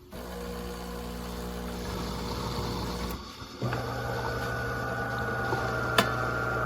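De'Longhi Magnifica Start automatic espresso machine running through its cycle. One motor hums steadily for about three seconds and stops briefly; then a louder, steady buzzing hum with a high whine starts and keeps going.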